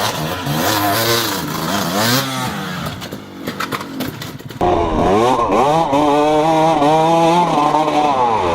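Small off-road vehicle engines revving up and down, with a few clattering knocks near the middle. About four and a half seconds in, the sound switches abruptly to another engine revving in rising and falling sweeps.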